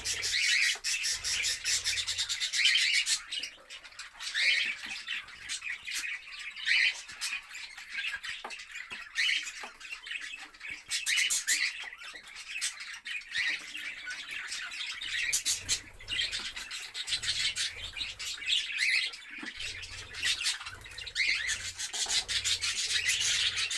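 Budgerigars chattering, a steady mix of chirps and squawks, with small clicks and scratches of the birds moving about.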